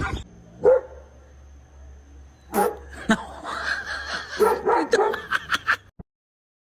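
A dog barking: one bark a little under a second in, then a run of short barks and yips, cut off abruptly near the end.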